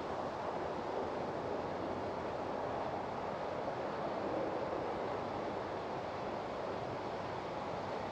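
Steady outdoor background noise: an even, unbroken rush with nothing standing out.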